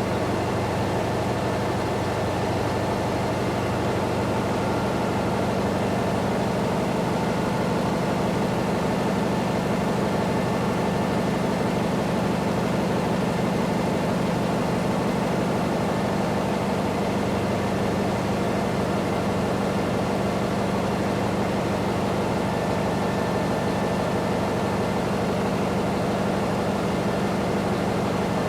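Construction site ambience dominated by a heavy machinery engine running steadily, a constant low drone without strikes or changes.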